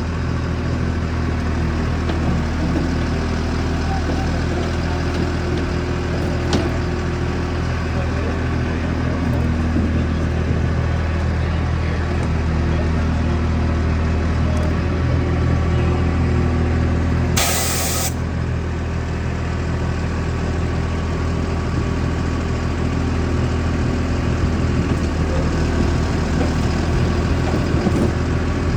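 International mixer truck's Navistar engine running steadily while the feed mixer operates. Partway through, a short sharp hiss of released air cuts in once.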